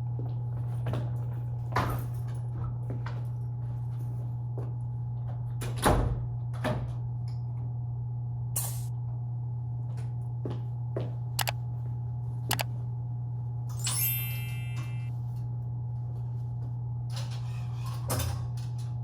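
A steady low hum with scattered clicks and knocks, the loudest about six seconds in, and a brief buzzy rattle a little past the middle.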